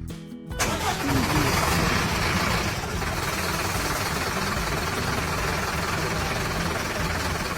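Steady machine engine running, cutting in suddenly about half a second in, with a heavy low rumble under a broad hiss.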